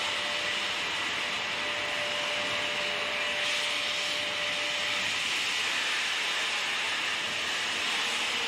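Steam train running, a steady rushing hiss with a faint steady tone that fades out about five seconds in.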